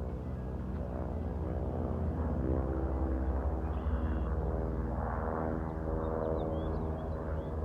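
Piston-engined WWII-era propeller warplanes droning past, the engine note building to its loudest around the middle and easing slightly afterwards.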